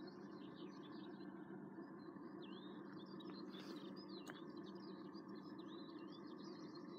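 Wild birds singing, a continuous run of quick, high chirps and twittering phrases, over faint steady background noise.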